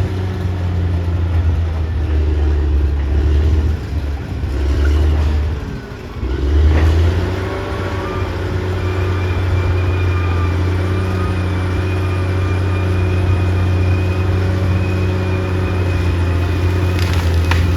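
Caterpillar D6R XL bulldozer's diesel engine working under load. It dips briefly about six seconds in, then revs back up. A steady high whine joins it a few seconds later, and a few clanks come near the end.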